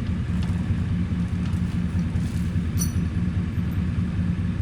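A vehicle engine running at a steady idle, a low pulsing rumble.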